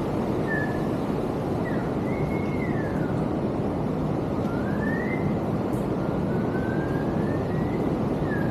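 Steady rushing water noise, with a faint thin whistle gliding slowly up and down in pitch over it.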